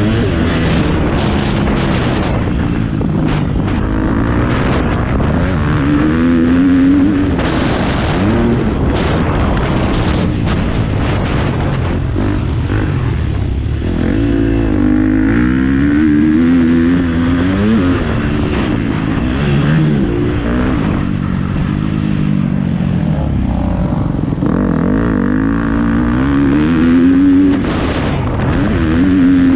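A motocross bike's engine being ridden hard, its pitch rising and dropping again and again as the rider opens and closes the throttle and shifts.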